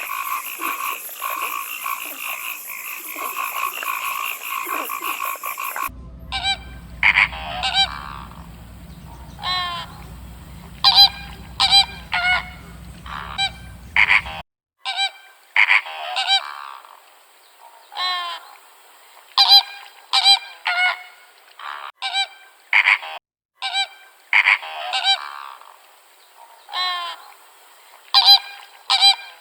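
Animal calls: a few seconds of dense, continuous calling, then, after a sudden change about six seconds in, a long series of short separate calls, many falling in pitch, coming one or two a second.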